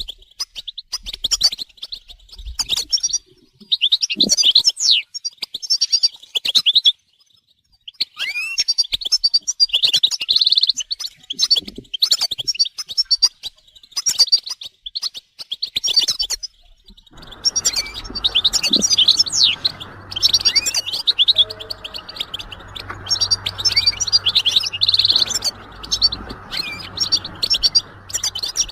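European goldfinches twittering and singing: bursts of fast, bright chirps and trills with short pauses between them. From a little past halfway a steady low hiss and hum runs underneath the birds.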